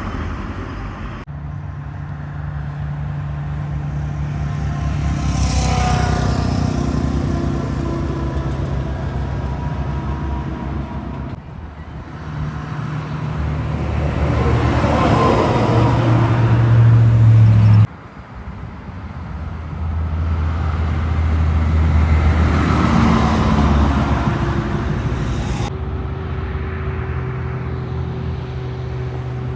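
Heavy trucks driving past one after another, engine and tyre noise swelling to a peak and fading as each passes, with abrupt cuts between passes.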